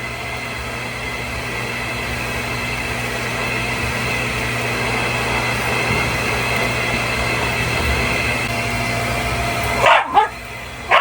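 Vacuum cleaner running with a steady hum and whine for about ten seconds, then cutting off suddenly. A Shiba Inu then barks sharply twice, with another pair of barks at the very end.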